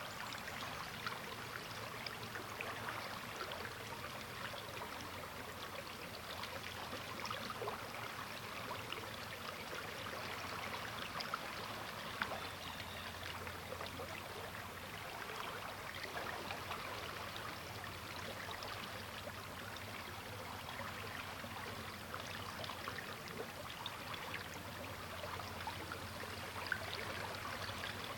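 River water flowing steadily, a busy babbling and trickling over rocks with constant small splashes.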